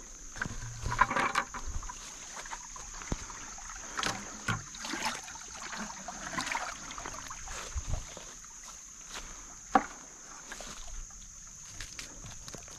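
Water sloshing and splashing in a bucket, with rustling and knocks of handling, as a freshly caught creek chub is put in; one sharp knock stands out near the end.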